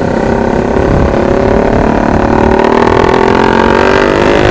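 Honda CBR sport motorcycle's engine running under way, its pitch climbing steadily as the bike gathers speed, over a rough wind rumble on the helmet-mounted microphone.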